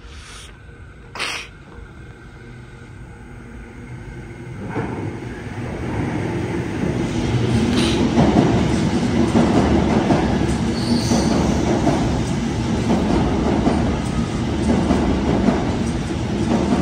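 A Sydney Trains electric double-deck train coming along the platform, its running and wheel clatter building from about four seconds in and staying loud, with a brief high wheel squeal near eleven seconds. A single sharp click sounds about a second in.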